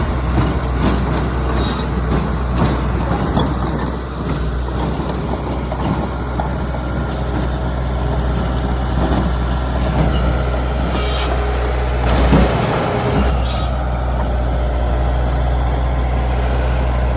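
Heavy diesel engine of a Komatsu D31PX crawler bulldozer running steadily, with scattered metallic clanks and knocks and a louder clunk about twelve seconds in.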